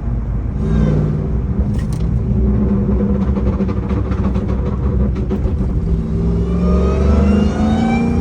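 Ram TRX pickup's supercharged 6.2-litre Hemi V8, tuned to about 900 hp, running hard under way with a deep exhaust rumble; over the last couple of seconds it revs up steadily under acceleration.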